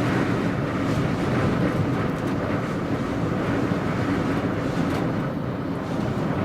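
High wind of about 50 mph rushing and buffeting around a Jeep: a steady, dense rushing noise with no let-up.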